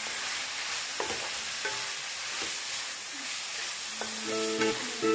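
Chicken pieces and onion sizzling in oil in a nonstick pan while being stirred with a spatula, with a few light taps and scrapes of the spatula on the pan.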